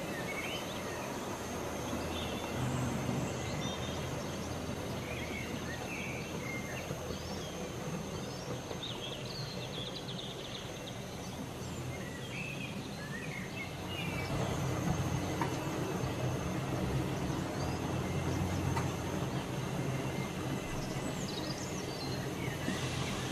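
A train running past with a steady low rumble that grows louder about two-thirds of the way through, while birds chirp over it.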